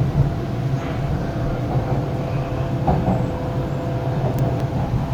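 Hyundai Rotem R-Train electric multiple unit running at speed, heard from inside the carriage: a steady low rumble of wheels on track with a faint constant whine above it.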